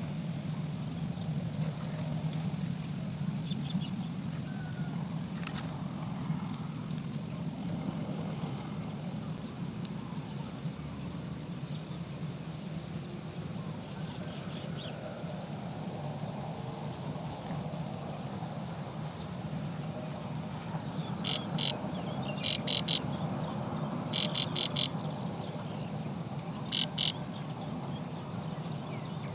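Small bird chirping: faint calls over a steady low background rumble, then about two-thirds of the way in, three clusters of loud, rapid, high-pitched chirps.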